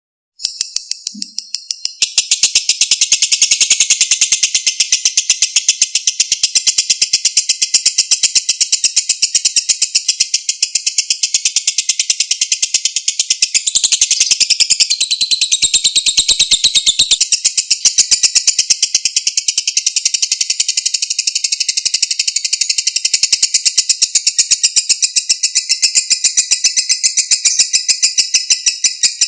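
Lovebird in a long 'ngekek': a rapid, unbroken chatter of high, evenly repeated notes. It starts faintly after a short gap, goes full and loud about two seconds in, and carries on without a pause.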